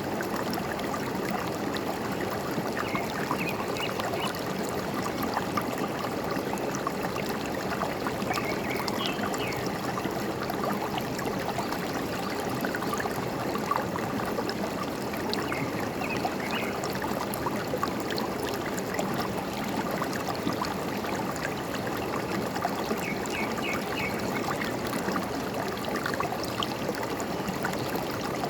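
A forest stream running steadily, trickling and gurgling, with a few short runs of faint bird chirps over the water.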